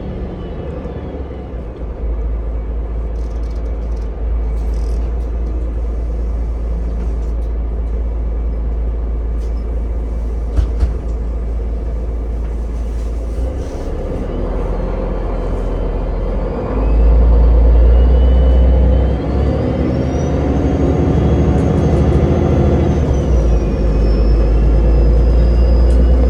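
Ride inside a city bus on the move: steady low drive rumble and road noise, with a brief knock about ten seconds in. Later the drive grows louder and a high whine rises, holds, then drops as the bus pulls away and speeds up.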